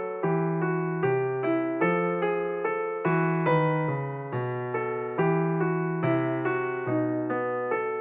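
Background music: a gentle piano piece of evenly paced notes over low bass notes.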